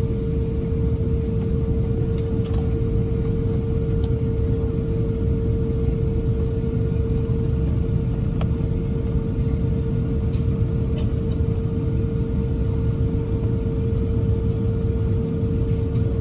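Airbus A350-1000 cabin noise: a steady low rumble with a constant hum from the Rolls-Royce Trent XWB engines, with a few faint rattles, heard from inside the cabin. The level holds even throughout, with no spool-up.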